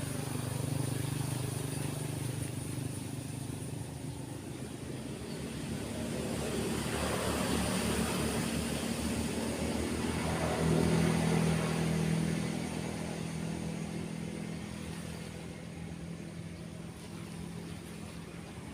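Road traffic, cars and motorbikes passing by, over a steady wash of waves. It grows louder about halfway through, as a couple of vehicles pass close.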